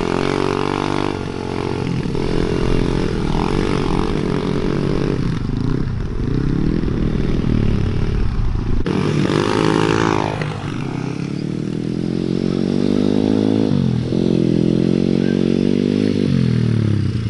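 Small four-stroke pit bike engine being ridden, revving up and easing off several times so its pitch rises and falls.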